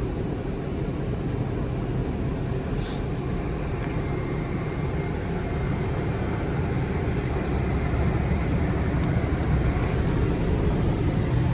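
Steady low rumble of a ProCharged Chevrolet Camaro's engine heard from inside the cabin as the car runs at low speed. A faint high whine sits over it for a few seconds in the middle.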